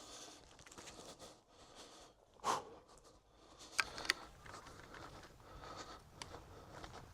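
Rustling and handling noises, with a louder swish about two and a half seconds in and two sharp clicks soon after.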